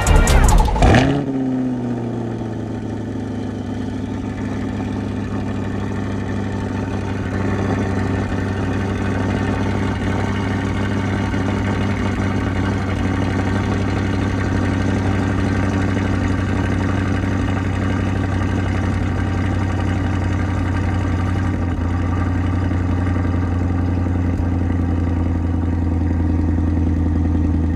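A vehicle engine idling steadily with a low, even hum that gets a little louder from about eight seconds in.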